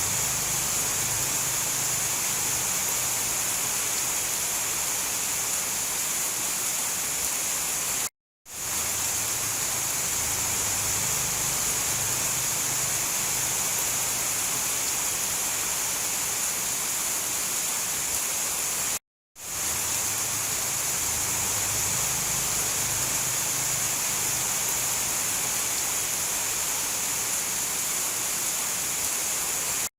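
Steady heavy rain, an even hiss with a faint low rumble beneath. It cuts out to silence for a moment twice, about 8 and 19 seconds in, and quickly comes back each time.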